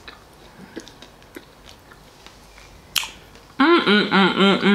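A person eating salad: soft chewing and faint fork clicks. About three and a half seconds in comes a quick run of six or seven short, matching pitched notes, which is the loudest sound.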